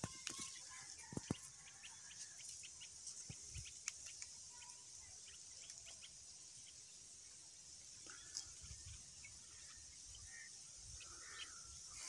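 Faint bird calls in the trees: scattered short chirps and a few brief call notes over a steady high hiss.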